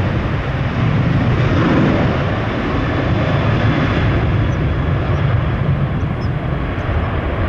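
Jet airliner engine noise: a steady, even rushing sound, heaviest in the low end, holding level throughout.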